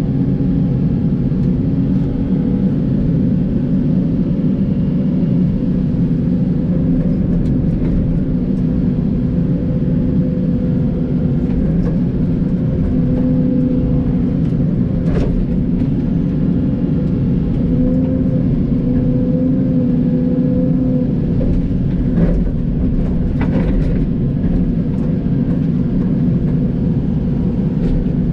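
John Deere 85G excavator's diesel engine running steadily at working speed, its pitch shifting slightly as the machine works, with a few sharp knocks partway through.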